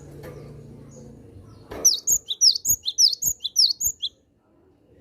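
Cinereous tit (gelatik batu) calling: a rapid run of high, down-slurred chirps, about six a second, starting about two seconds in and stopping after roughly two seconds.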